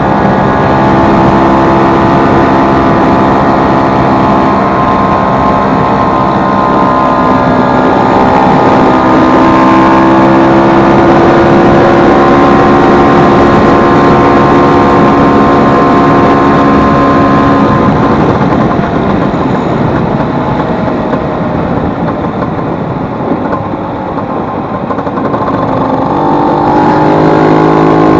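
Vespa 150's two-stroke single-cylinder engine running under throttle during a test ride after a repair to its engine's cush-drive gear. Engine speed climbs and holds, eases off about two-thirds of the way through, then picks up again near the end.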